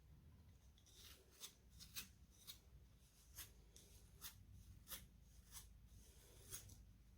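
Faint, quick strokes through hair: about ten short swishes, irregularly spaced, starting about a second in.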